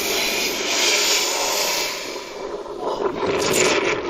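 Jet engines of a Wizz Air Airbus airliner passing close on its landing approach: a loud, rushing engine noise that eases after about two seconds.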